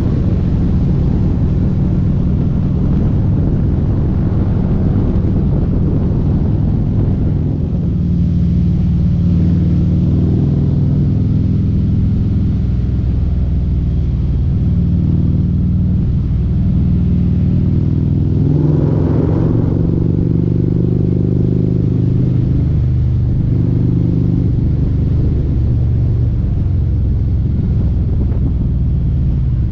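Harley-Davidson bagger motorcycle engine running at road speed, its pitch stepping up and down with throttle and gear changes, with a brief louder surge about two-thirds of the way through.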